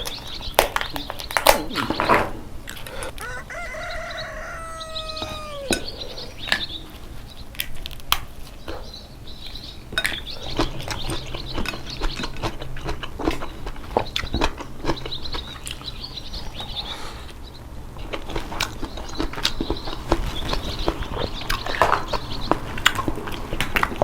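Red snow crab being eaten: shells cracking and snapping, with clicks, slurps and chewing throughout. About three seconds in comes a drawn-out pitched call that falls away at its end, about two seconds long.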